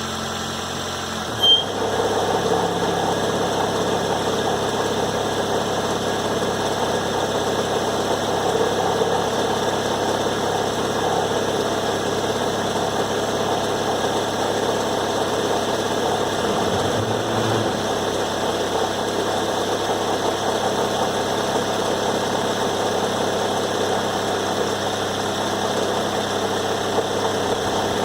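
2006 Toyota Corolla engine idling; about a second and a half in there is a click, and a louder rough, buzzing noise joins and holds steady over the idle. This fits the unexplained noise the owner gets when the car is shifted into Drive, 1, 2 or Reverse soon after starting, which goes away after about two minutes.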